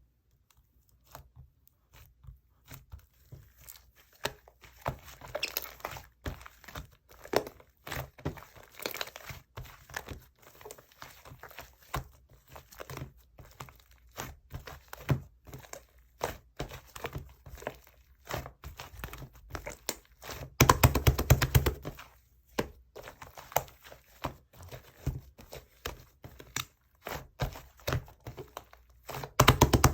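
Clay slime being squeezed, poked and stretched by hand, making an irregular run of sticky clicks and pops. There are two spells of fast, louder popping, one about two-thirds of the way through and one near the end.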